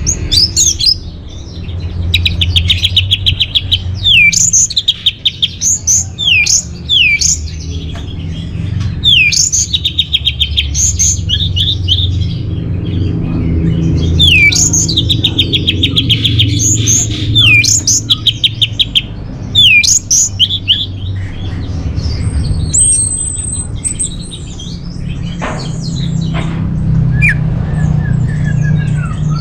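Orange-headed thrush singing: rapid trilled phrases with quick downward-sweeping notes, repeated over and over. In the last part it switches to different, higher whistled notes. A steady low hum runs underneath.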